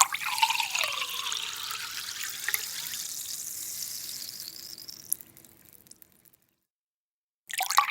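Water running into a container, with a ringing tone that climbs steadily as it fills, fading out about five seconds in. A similar fill starts again near the end.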